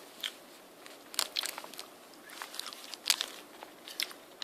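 Grape Hi-Chew chewy candy being chewed: scattered short, sharp mouth clicks.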